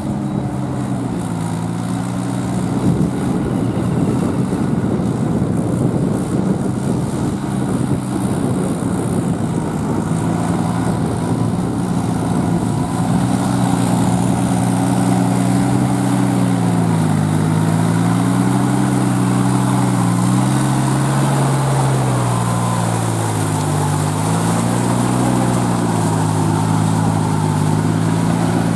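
Kubota L3408 tractor's three-cylinder diesel engine running under load while driving a rotavator through paddy mud. Its pitch sags and recovers a couple of times in the second half as the engine labours.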